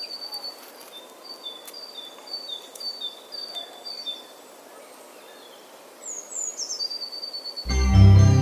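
Bird chirping over a steady hiss of outdoor ambience: a short call alternating between two pitches, repeated about twice a second, then a few quick falling chirps. Near the end, music with organ and piano comes in loudly.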